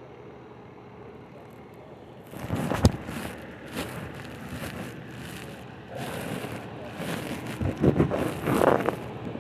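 Irregular rustling and scraping noise with a few sharp knocks, starting about two seconds in and loudest near the end.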